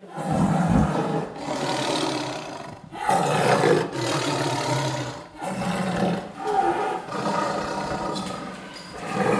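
A big cat roaring: a series of long, rough roars with short breaks between them.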